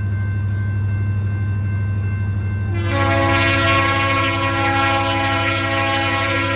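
Locomotive rumbling steadily. About three seconds in, its air horn starts one long blast, a chord of several tones sounding together.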